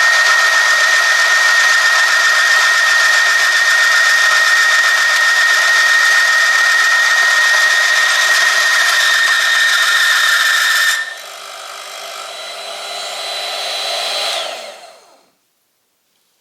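Oil-film friction test machine running, its motor-driven rotating part rubbing against a loaded metal test sample lubricated with two-stroke oil at 100°C, giving a loud steady high squeal with motor whine. The squeal cuts off abruptly about eleven seconds in; the machine runs on more quietly and dies away a few seconds later.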